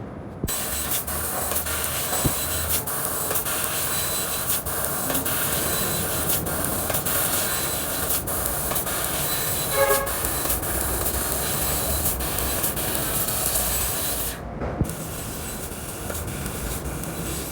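CNC laser cutting machine running: a steady loud hiss with a low hum underneath. It starts about half a second in, cuts out for a moment near the end, then starts again.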